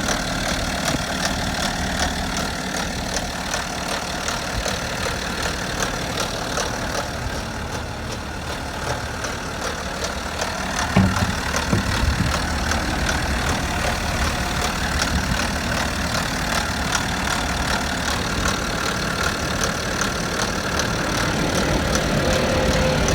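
BMW 530d's N57 straight-six diesel idling after a cold start, with a rapid, regular knocking over the engine note. The owner links the noise to the timing chain.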